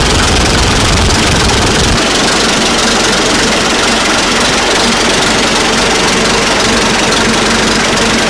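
1940 Fordson N tractor's four-cylinder side-valve engine running steadily; its deep low rumble drops away about two seconds in.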